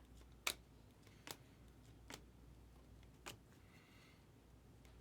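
Trading cards being handled and flipped one at a time: four soft clicks about a second apart over otherwise near-quiet room tone.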